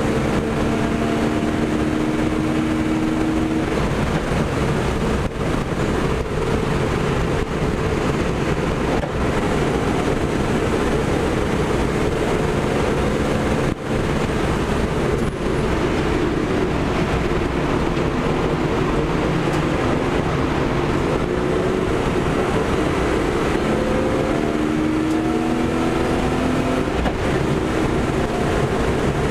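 BMW 325i's straight-six engine running under load at track speed, heard inside the cabin with heavy road and wind noise. Its pitch climbs in the first few seconds and again near the end as the car accelerates.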